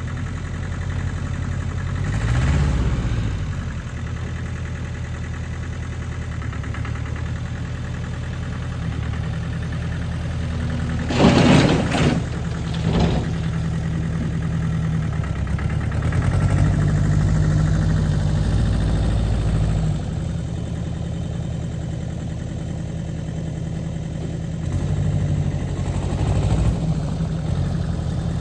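An engine idling steadily, with a short, louder burst of noise about eleven seconds in.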